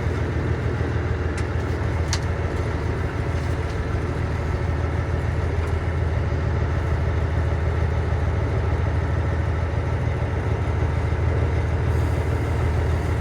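The 1999 International 9100i semi tractor's Cummins ISM inline-six diesel running steadily, a deep even drone with no revving. There are two faint clicks about one and two seconds in.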